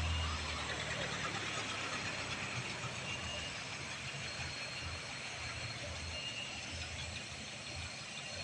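Truck engine running at low revs: a low rumble that is strongest at the start and fades, over a steady hiss of outdoor noise.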